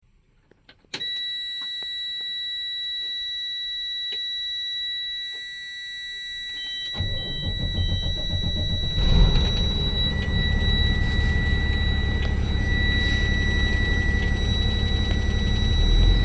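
A dashboard warning buzzer comes on with a steady high tone about a second in. Some seconds later the 6.7-litre Cummins inline-six diesel of a 2013 Freightliner bucket truck cranks, starts and settles into an idle while the buzzer keeps sounding.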